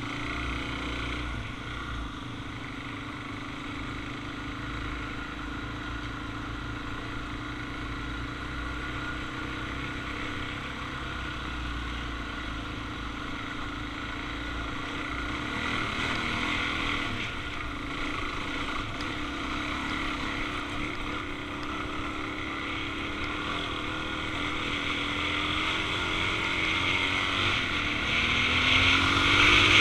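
Suzuki DR-Z400's single-cylinder four-stroke engine running steadily while the bike is ridden, getting louder over the last few seconds with a short rise in pitch near the end as it revs up.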